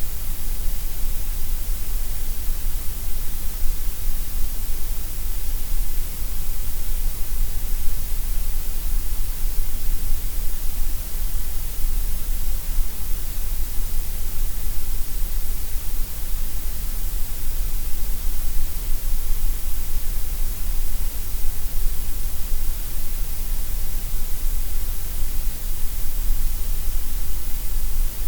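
Gray noise: a steady, unchanging hiss spread across all pitches, with a strong deep rumble at the bottom and bright hiss at the top, with no events or changes.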